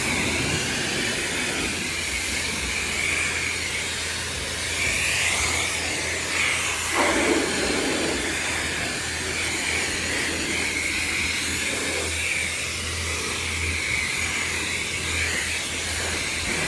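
Self-serve car wash high-pressure wand spraying rinse water over a car's paint: a steady hiss with a low hum underneath. About seven seconds in, the spray briefly sounds lower and louder, as if striking a different surface.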